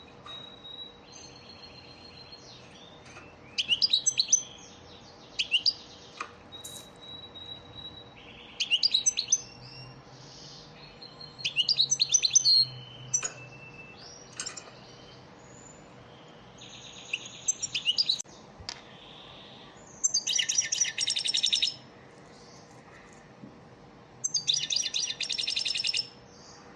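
European goldfinch song, the kind of lesson song played to teach young goldfinches: short bright twittering phrases with pauses between them and thin held whistles, and two longer buzzy rattling trills later on.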